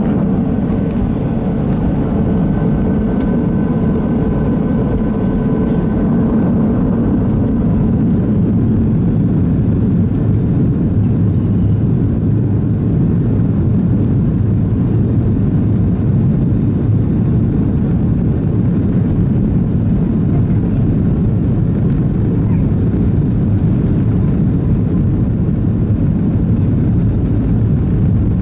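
Steady roar of a Boeing 737-600's CFM56-7B jet engines heard from inside the passenger cabin, with a faint high whine that fades out in the first few seconds.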